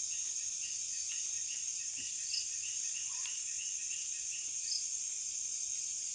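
Night insect chorus: a steady high-pitched cricket trill, with a run of short chirps about three a second through the first half and a few higher single chirps.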